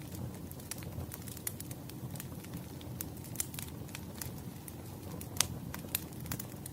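Wood fire burning, crackling and popping irregularly over a low steady rumble, with one louder pop about five seconds in.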